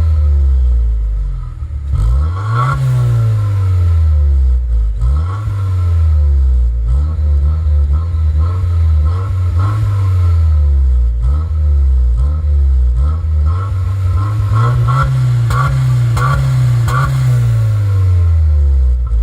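Subaru WRX turbocharged flat-four engine free-revving in neutral through a Ganador aftermarket muffler. The throttle is blipped over and over, the exhaust note climbing and dropping back each time.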